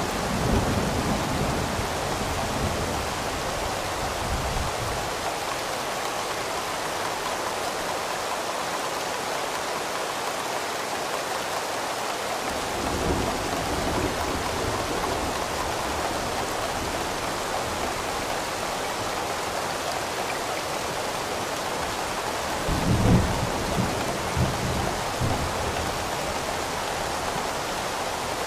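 Steady rain with rolls of low thunder: one in the first few seconds, another about halfway through, and the loudest near the end, with a couple of sharper cracks in it.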